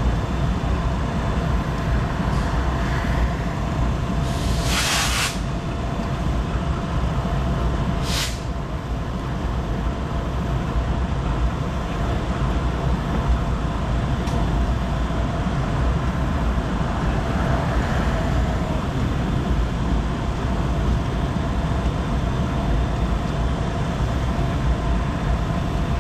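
BNSF intermodal stack train rolling past with a steady low rumble and faint steady wheel tones, broken by two short hisses, one about four and a half seconds in and one about eight seconds in.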